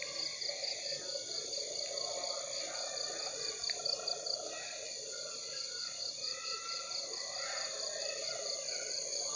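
Night-time crickets and other insects chirping: a high, rapid, evenly pulsed chirp over a steady high-pitched insect drone, with a fainter rough chorus lower down.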